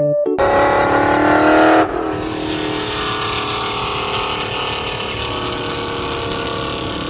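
A car's engine and exhaust with a pitched whine, rising slightly and loudest for about a second and a half after it cuts in, then settling to a steady drone.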